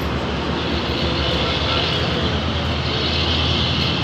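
A motor running steadily with a low hum, joined about half a second in by a steady hiss.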